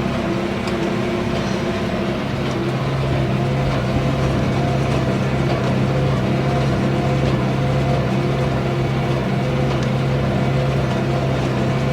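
Tractor engine running steadily with the clatter of a Massey Ferguson 1842S small square baler working behind it.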